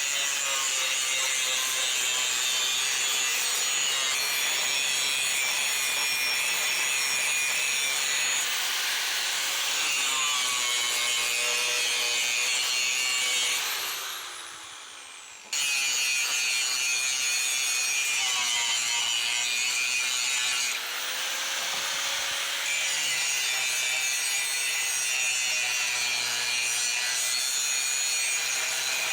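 Angle grinder working steel in two long runs, its pitch wavering as the disc bites. About 14 seconds in it winds down with a falling whine, then starts again sharply a second or two later and runs on until it winds down again at the end.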